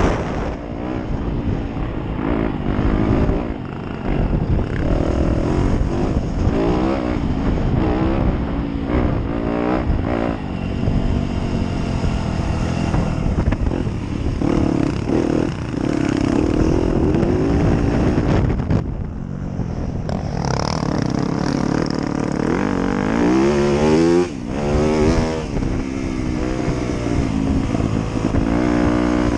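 Motocross dirt bike engine ridden on the track, revving up and down repeatedly as the throttle is opened and closed, its pitch rising and falling again and again.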